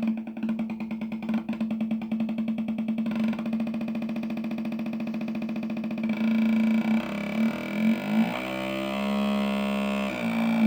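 Homemade two-oscillator fake motorcycle sound generator putting out a buzzing electronic engine note. It pulses rapidly for the first six seconds or so, then turns steadier, with its pitch sliding down and up as the settings are tuned.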